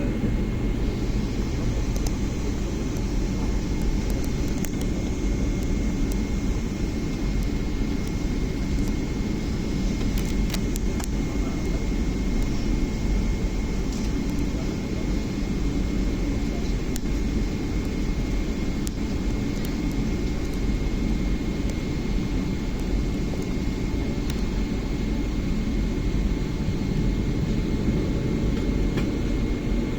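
Boeing 777-300 cabin noise with the jet engines running: a steady low rumble with a thin, steady high whine over it and a few faint clicks. The level holds even, with no build-up of a takeoff run.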